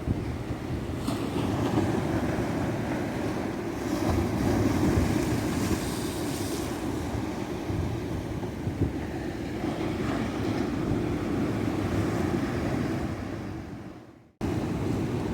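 Ocean surf breaking and washing on a beach in a steady rushing wash that swells and eases. Near the end it fades to a brief silence, then cuts back in abruptly.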